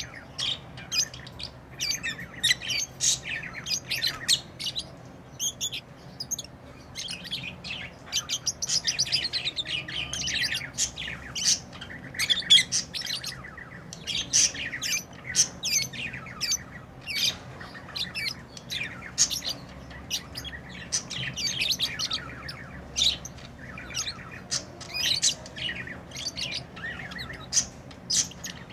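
Pet lovebirds chirping and squawking almost without pause: a stream of short, shrill, high-pitched chirps.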